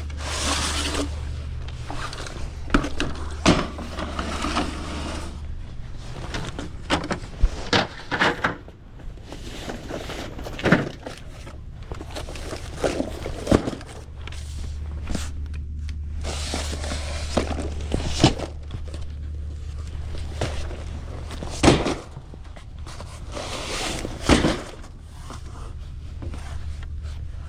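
Soda bottles and cases being handled and set on store shelves: a string of irregular clunks, knocks and rattles. A low steady hum runs underneath for a few seconds at a time.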